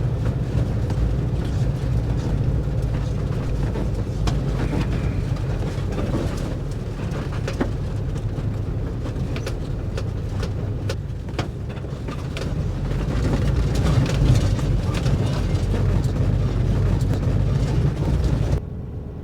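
Air-cooled flat-four engine of a 1958 VW bus running at a steady low pitch while the bus crawls over a rocky dirt trail, with frequent knocks and rattles from the body and rocks under the tyres. The sound drops off suddenly near the end.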